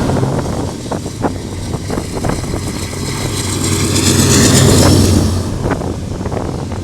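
Freight train passing: a steady low rumble with wheels clicking over rail joints, and a loud rushing noise that swells in the middle and eases off about five seconds in.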